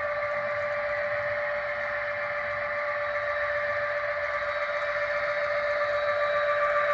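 HO scale model locomotive running on the layout's track: a steady whine with a hissing rush over it, slowly getting louder near the end.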